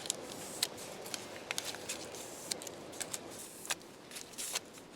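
Light handling noise: a scattered string of small clicks and soft rustles, about a dozen sharp ticks spread across the few seconds over a faint steady hiss.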